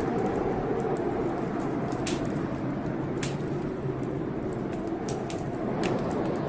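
Wood fire in a fireplace crackling, with sharp pops every second or so over a steady low rushing noise.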